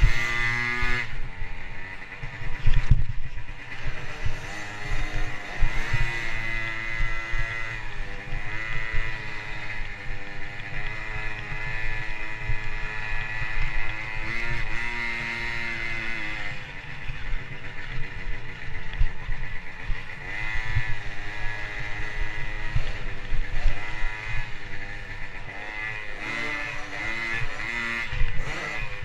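Motocross bike engine revving hard. Its pitch climbs and falls back over and over as the rider shifts and rolls on and off the throttle, with hard low thuds about three seconds in and near the end.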